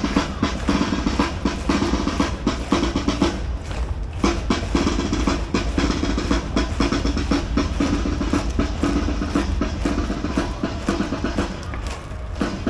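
Military band music driven by snare and bass drums, with fast, rhythmic drumming throughout.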